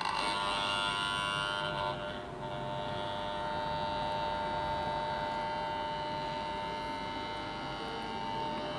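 Growler's AC electromagnet humming steadily while energised against the generator rotor, inducing a voltage in the field windings for testing. The hum changes a little about two seconds in.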